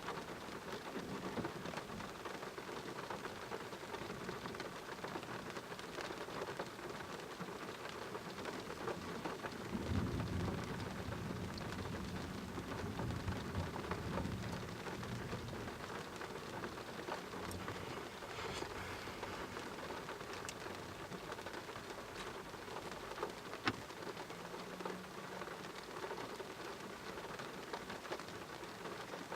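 Steady rain falling during a thunderstorm, with a low rumble of thunder starting about ten seconds in and lasting several seconds.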